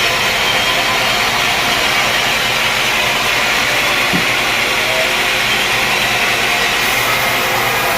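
Sawmill machinery running steadily: a loud, even mechanical noise with no breaks.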